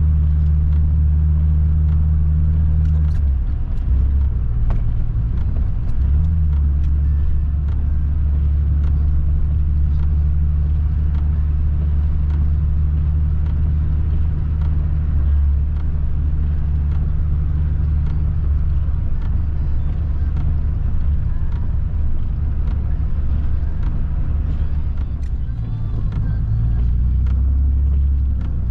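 Nissan 300ZX's V6 engine running at low, steady revs, heard from inside the cabin while driving slowly. The engine note changes a few seconds in and again near the end.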